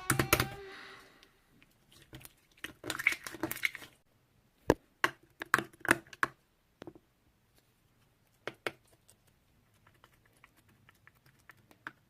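Irregular sharp clicks and taps, some in quick clusters, with quiet gaps between; the loudest come about five to six seconds in.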